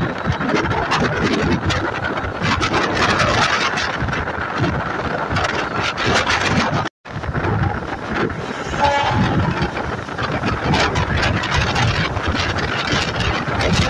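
MEMU electric train running on the rails, a steady loud rumble and rattle with rapid wheel clicks. The sound drops out for an instant about seven seconds in, and a brief pitched tone sounds about nine seconds in.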